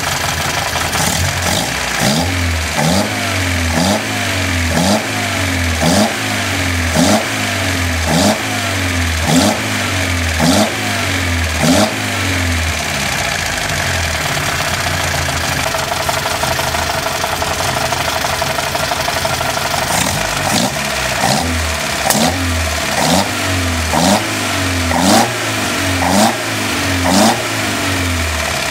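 Datsun Bluebird 510's 2.4-litre L-series four-cylinder engine, built on a Z24 base, running during a start-up check. It is revved in short throttle blips about once a second, each rising and falling back, in two runs with steady idling in between.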